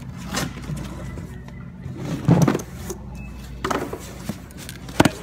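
Blister-packed die-cast toy cars being rummaged through in a bin: plastic packaging rustling and clattering in a few short bursts, with a sharp knock near the end.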